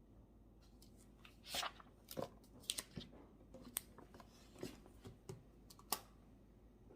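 Faint, scattered clicks and short rustles of things being handled at a study desk, about eight in all and irregularly spaced, the longest a rustle about a second and a half in.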